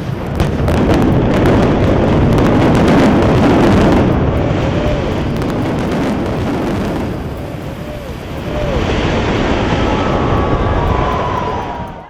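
Building collapsing in an explosive demolition: a long, loud rumble with crackling debris, easing briefly around two-thirds of the way through, swelling again, then cutting off at the end.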